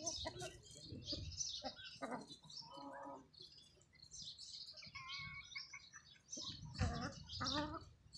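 Birds chirping repeatedly in short, high-pitched calls, with a few lower calls among them.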